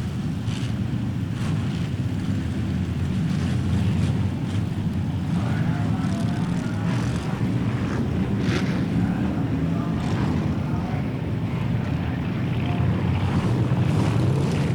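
Stock car engines running on a short oval track, a steady low rumble that holds throughout.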